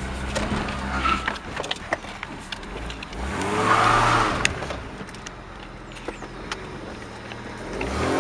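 Car engine heard from inside the cabin while driving: it revs up about three to four seconds in, eases off, then revs up again near the end. Scattered clicks and rattles run through it.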